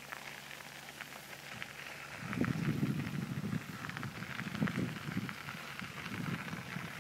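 Bicycle riding along a park path: a steady crackle of many small ticks from the rolling tyres, with wind gusting on the microphone from about two seconds in.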